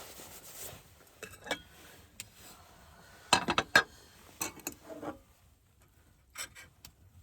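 A short hiss, then a scattering of light clinks and knocks from tableware and glass being handled, busiest about three and a half seconds in.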